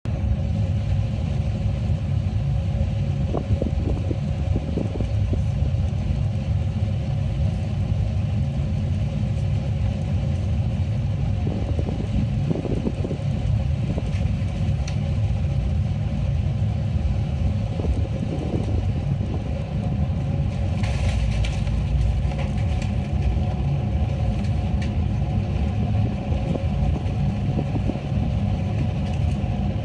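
Airliner on final approach with flaps and landing gear extended: a steady low rumble of engines and airflow with a constant hum over it, and a brief stretch of extra hiss about two-thirds of the way through.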